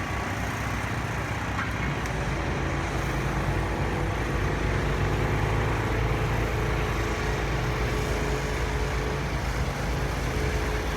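City street traffic: a steady rumble of vehicle engines and tyres with a faint constant hum.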